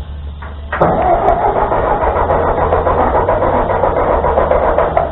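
Ford 2N tractor's four-cylinder engine being cranked by its starter for about four seconds without catching. The owners put this down to fuel not getting through from the carburettor.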